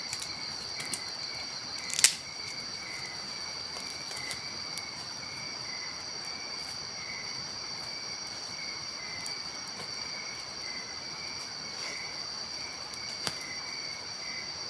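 Crickets chirping in a steady night chorus, a high continuous trill over a lower pulsing one. A few sharp clicks break through, the loudest about two seconds in.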